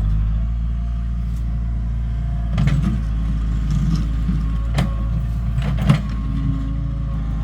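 Engine of a heavy vehicle running steadily with a deep hum. Sharp metallic clanks sound three times, near the middle and toward the end.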